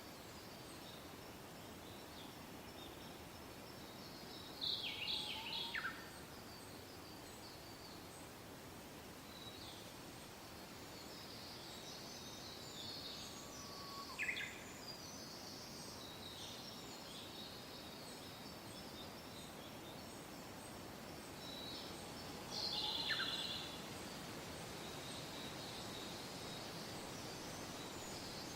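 Soft wind noise with birds singing: a continual high chirping, and three louder calls about 5, 14 and 23 seconds in, each with a quick downward-sweeping note.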